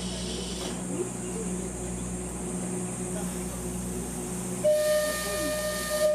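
Train running with a steady low rumble. A hiss stops about half a second in, and near the end the locomotive sounds one steady, held whistle blast of about two seconds, the loudest sound here.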